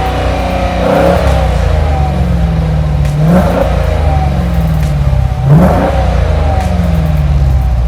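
2015 Dodge Challenger R/T Plus's 5.7-litre Hemi V8 idling with a low exhaust note and revved three times, each rev climbing quickly and sinking slowly back to idle.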